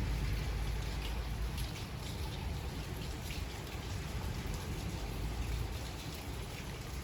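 Steady rain falling, with scattered individual drop hits and a low rumble underneath.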